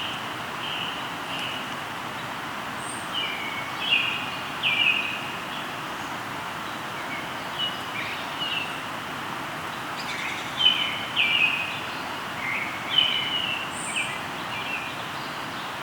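Birds singing short chirped phrases over the steady rush of a flowing river, the calls coming in loose clusters and busiest in the second half.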